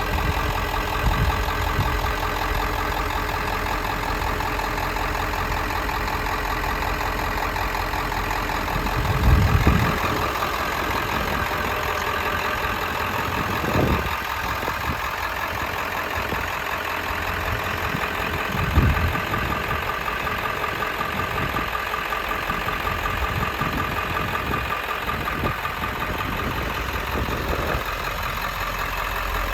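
Ford E350 ambulance's turbo diesel engine idling steadily, with a few brief low thumps about a third and two-thirds of the way through.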